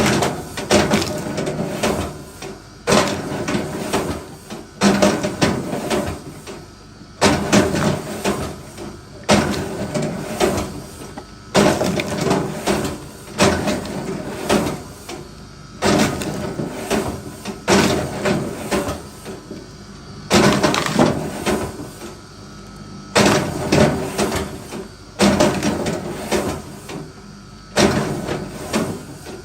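Wood being split: a sharp blow about every two seconds, each followed by a short run of knocks and cracks as the wood gives way, over a faint steady hum.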